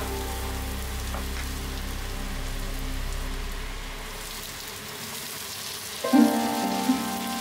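Chopped garlic sizzling in hot oil in a frying pan, with onion and capsicum chunks tipped in partway through. Plucked-string background music comes in with loud notes about six seconds in.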